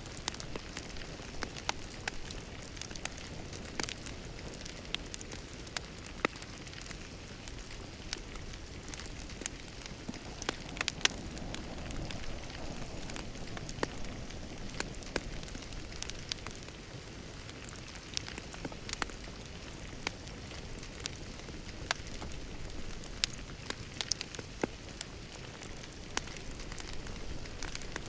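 Wood fire crackling in a fireplace: irregular sharp pops and snaps over a steady hiss, swelling slightly around the middle.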